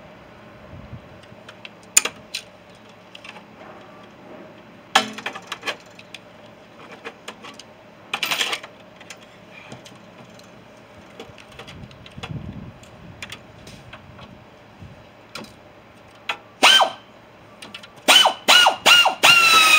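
Scattered metal knocks and clanks from scrap being worked on. Near the end a power tool is triggered in several quick short bursts, its whine dropping a little in pitch during each one.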